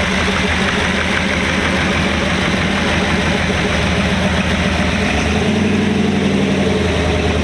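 A custom car's engine idling with a deep exhaust tone, picked up close under the car. The low note shifts slightly about five seconds in.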